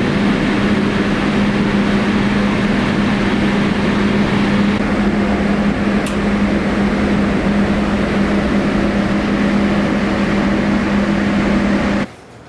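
A loud, steady running machine with a constant low hum, cutting off suddenly near the end.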